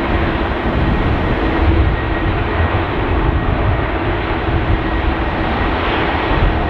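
Airliner jet engines running at high power, a steady loud rush with a faint steady hum through it, over a low wind rumble.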